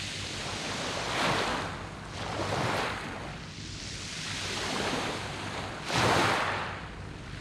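Sea waves breaking and washing over a pebble beach of smooth round stones, in repeated surges. The biggest wave comes about six seconds in.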